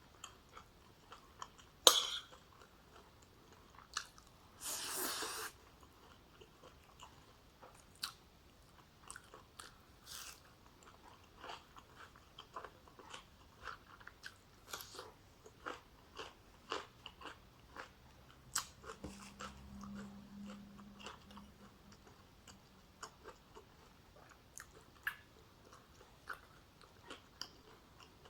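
Close-up chewing and biting sounds of a person eating a meal of oxtail stew with rice: many small wet clicks and smacks throughout. There is one sharp, loud click about 2 seconds in and a short hiss-like noise around 5 seconds.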